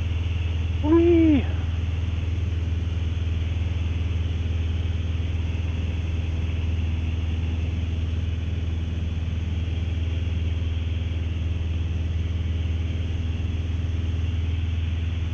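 Steady low drone of a Mooney single-engine piston airplane in flight, its engine and propeller heard from inside the cabin, holding an even pitch and level throughout.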